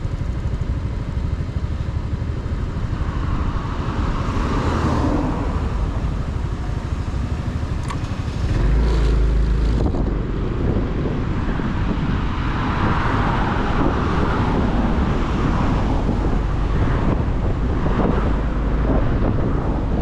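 Motorcycle riding on city roads: the engine running with road and wind noise on the mount microphone, getting louder about eight seconds in.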